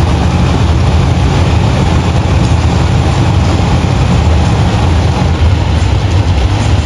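Monster truck engine running loudly and steadily, the sound heaviest in the deep bass.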